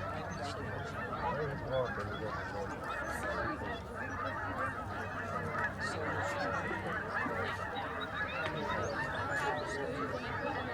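A huge flock of migrating wild geese calling all at once: a steady, dense din of countless overlapping honks.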